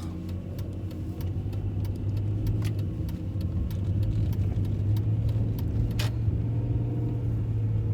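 A car running, heard from inside the cabin as a steady low hum, with scattered light clicks and a sharper click about six seconds in.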